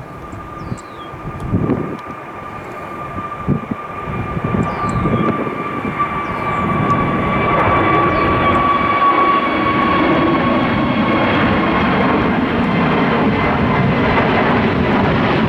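Frontier Airbus A320-family jet airliner's engines growing steadily louder, then holding, as it departs. A steady engine whine sinks slightly in pitch as it comes closer.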